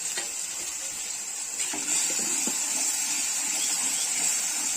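Masala paste with fenugreek leaves and turmeric sizzling steadily in a pan.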